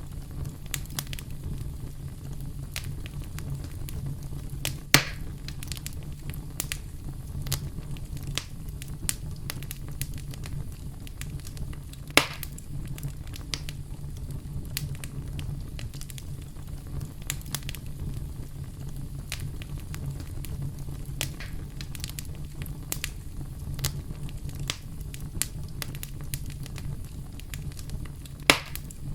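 Campfire burning, with a steady low rumble and constant small crackles of burning wood. Three louder pops stand out: about five seconds in, about twelve seconds in, and just before the end.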